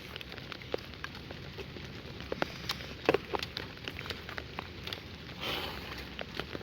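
Light rain: scattered, irregular raindrop ticks over a soft steady hiss, with a brief rustling swell about five and a half seconds in.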